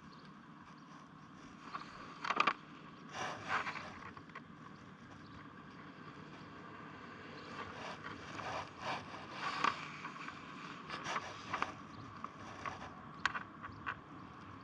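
Paper road map rustling and crinkling in short, irregular bursts as it is handled, with a faint steady hum underneath.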